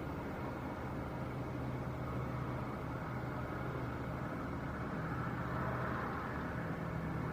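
Steady engine noise of an airliner at the airport, a continuous rushing hum with a faint low drone that swells slightly about five seconds in.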